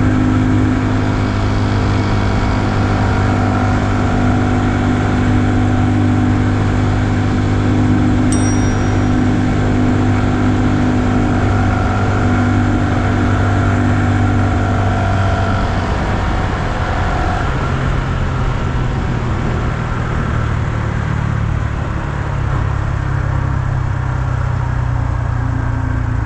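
2020 Honda Super Cub's 125 cc air-cooled single-cylinder engine running steadily under way, its note changing about two-thirds of the way through.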